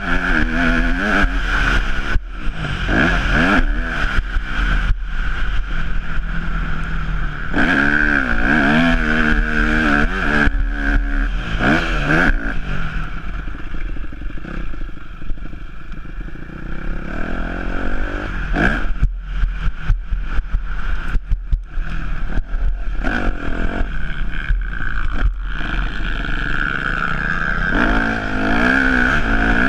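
Yamaha YZ250F's four-stroke single-cylinder engine revving up and falling off again and again as the motocross bike is ridden hard, with frequent knocks and clatter from the bike over rough ground.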